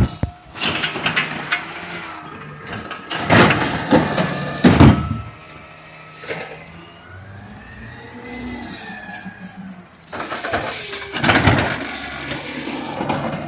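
Amrep garbage truck at work: the engine runs under several loud clanks and clatters, a whine in the middle rises and then falls in pitch, and a long rush of noise comes near the end.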